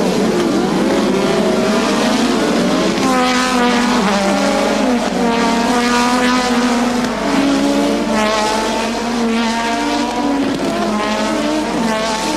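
A pack of 1986 Formula One cars with 1.5-litre turbocharged engines accelerating hard. Several engine notes overlap, each rising in pitch again and again as the cars go up through the gears.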